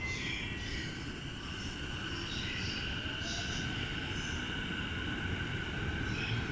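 Electric train running along the platform: a steady low rumble with a thin, even motor whine above it, growing slightly louder.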